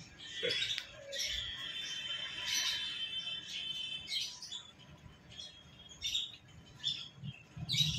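Small cage birds chirping and twittering, with a longer warbling stretch about a second in, then short high calls every second or so.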